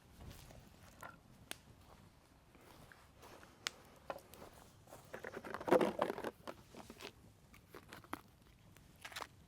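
Rustling and crinkling of camping gear being handled, loudest for about a second halfway through, among scattered sharp crackles from the campfire.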